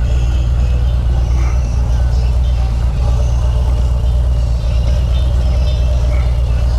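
Harley-Davidson Road Glide's V-twin engine running steadily under way, a deep, even exhaust rumble.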